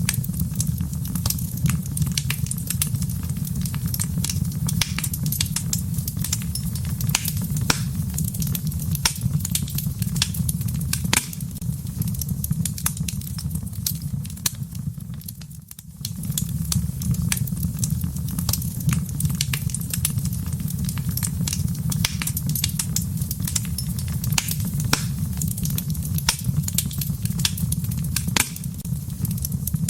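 Wood fire crackling in a fireplace: frequent sharp pops and snaps over a steady low rumble of the flames. The sound dips briefly about halfway through, then resumes.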